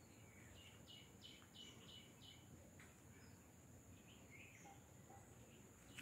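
Faint bird calls over near silence: a run of about five short, high notes in quick succession around the first two seconds, then a few fainter calls later.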